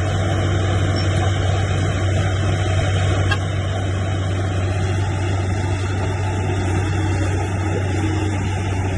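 Heavy diesel engine of an earthmoving machine running steadily, a deep even drone that holds without revving up or down.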